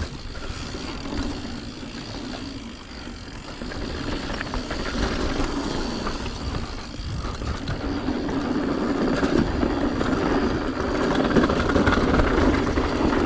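Mountain bike rolling down a rough trail: tyre noise, wind on the microphone and the bike chattering over braking bumps, growing louder in the second half.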